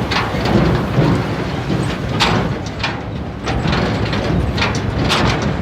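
Tractor running with a loud, continuous rumble.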